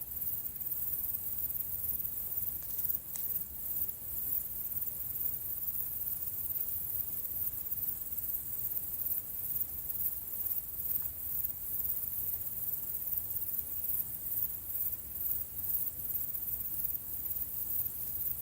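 A steady, high-pitched chorus of insects that keeps pulsing unevenly, over a faint low rumble.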